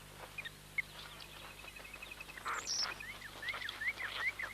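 Dwarf mongooses squabbling, giving short, high, rising chirps and squeaks, with a harsher squeal about halfway and a quick run of about five chirps near the end.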